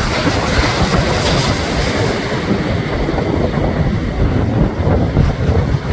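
Strong wind buffeting the microphone over the steady rush of rough ocean surf breaking on a rock breakwater. The brighter wash of the surf eases about halfway through.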